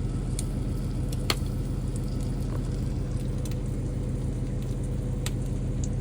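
Steak sizzling in a hot cast-iron skillet, a steady frying hiss with scattered sharp pops of spattering fat, over a steady low hum.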